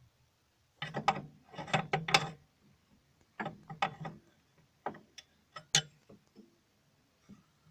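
Ratchet wrench clicking in several short bursts, metal tool on fittings, as the new clutch cylinder is tightened in place.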